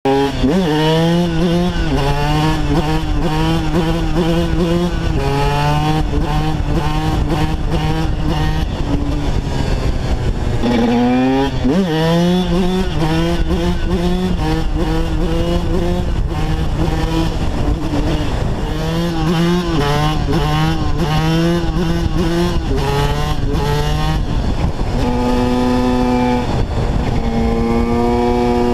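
TM 125 supermotard's two-stroke single-cylinder engine revving hard under acceleration, its pitch climbing and dropping again and again through the gears. About eleven seconds in the revs dip and climb again, and near the end the engine holds a steady high note.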